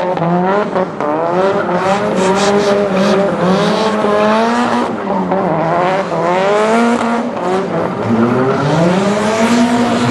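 A 760-horsepower show car doing donuts: its engine revs up and falls back again and again, with the rear tyres spinning.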